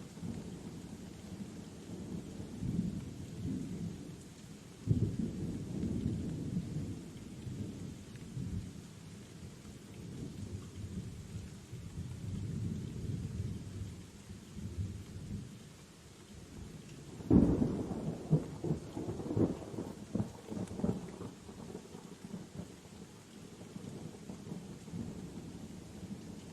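Steady rain with thunder rumbling throughout. A sudden clap comes about five seconds in, and a louder, crackling thunderclap about seventeen seconds in, rolling on for a few seconds.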